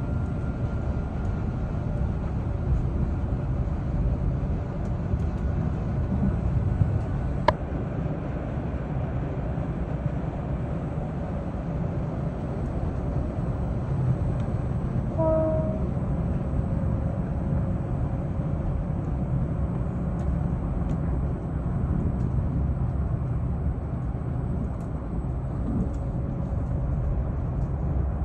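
Moving passenger train rolling along the track: a steady low rumble of the carriage on the rails, with one sharp click about seven seconds in.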